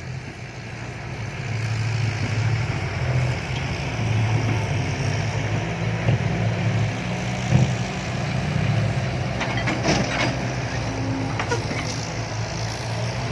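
Heavy diesel engine running steadily under load, building up over the first couple of seconds, with a few metallic knocks and clanks in the second half.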